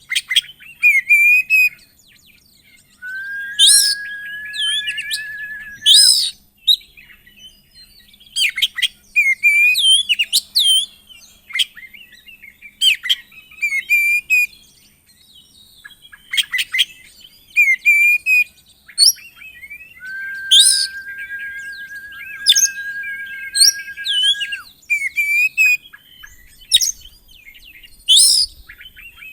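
Oriental magpie-robin (kacer) in full song: a fast, varied run of sharp whistles and chirps, with a long held, slightly wavering note about three seconds in and another around twenty seconds in. It is the loud, excited 'gacor' song, rich in imitated phrases, that keepers play to provoke other magpie-robins into singing.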